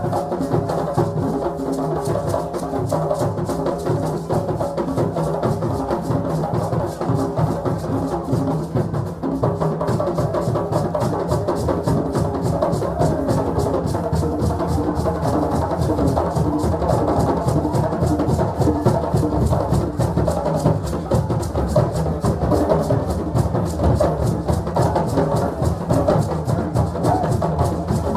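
West African drum ensemble playing a fast, dense rhythm, with a pitched melodic part over the drums.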